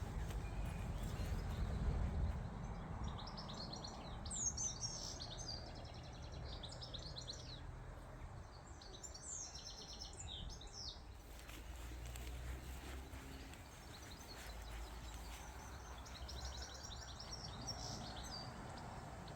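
A songbird singing short, fast, high-pitched twittering phrases of about two seconds each, four times, over a steady low rumble of outdoor background noise.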